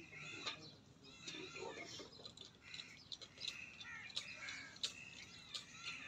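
Birds chirping and calling in quick, overlapping short chirps, with sharp click-like calls mixed in.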